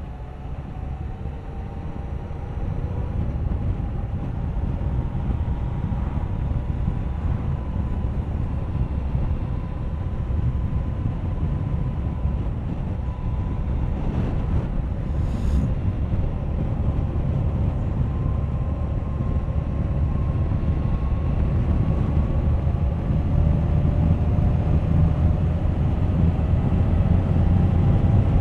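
Suzuki GSX1250FA motorcycle's inline-four engine running on the road under a steady low rumble of wind and tyre noise. The engine note climbs and grows louder toward the end as the bike picks up speed.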